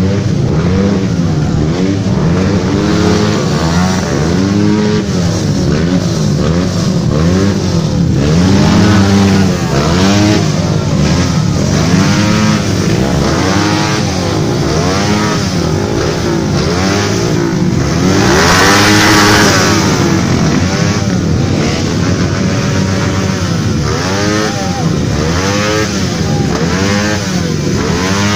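Several tuned Honda CB motorcycle engines being revved over and over, their pitch rising and falling in overlapping blips. A harsher, noisier burst comes about two-thirds of the way through.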